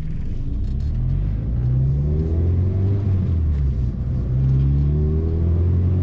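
Mazda MX-5 NC's 2.0-litre four-cylinder engine with an aftermarket exhaust, accelerating hard, with its pitch rising twice as it pulls through a gear change; a deep, low exhaust note.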